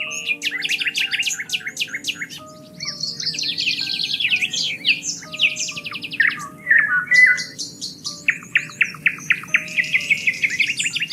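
Several songbirds singing, with fast repeated trills and warbling, chirping phrases that overlap one another. Soft, slow music plays underneath, with held notes that change pitch every second or two.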